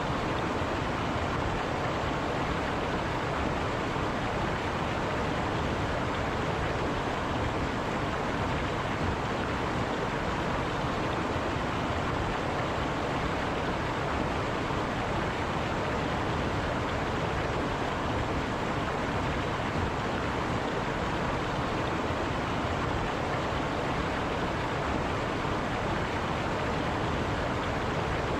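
River water running steadily over rocks: a continuous, even rush.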